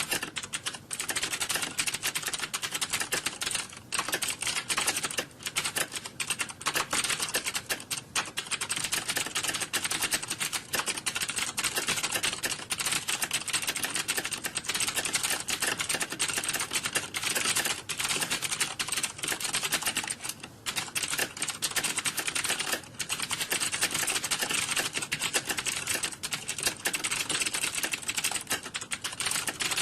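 Computer keyboard typing: a fast, dense clatter of keystrokes that runs on without a break except for a few brief lulls, the sound of rapid typing as in an exam room.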